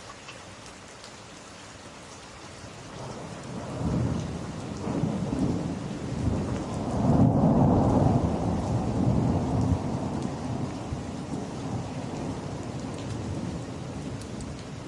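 Steady rain with a long roll of thunder that builds from about three seconds in, peaks about halfway, then slowly rumbles away.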